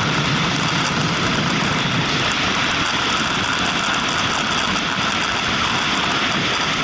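Motorcycle riding at a steady speed, its engine under a steady rush of wind noise that does not rise or fall.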